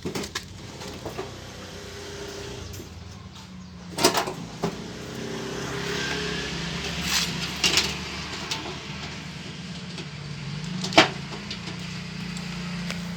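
Fogging machine engine running with a steady buzzing drone, fired with an electric stove igniter in place of its dead ignition coil. A few sharp knocks and pops sound over it.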